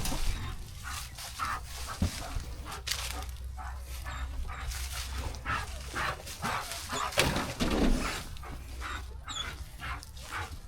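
A dog moving about close by, making scattered short sounds among light knocks and rattles.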